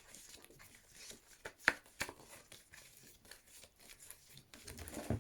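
Paper flashcards being flipped through by hand: faint rustling and light card clicks, with one sharper click about a second and a half in.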